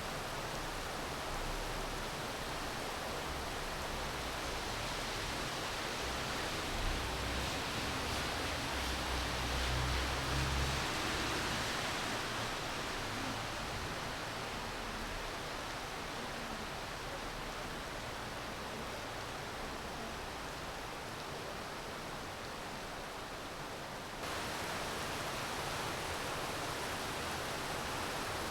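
Steady rain falling, an even hiss. A low rumble swells under it about ten seconds in, and the sound steps up abruptly a few seconds before the end.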